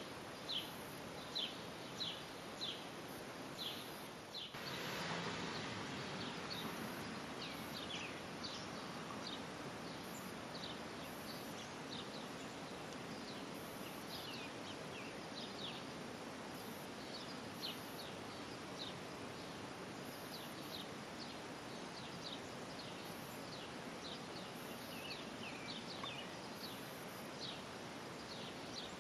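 A bird giving short, high, falling chirps over and over at an irregular pace, over a steady outdoor background hiss. The hiss grows louder about four and a half seconds in.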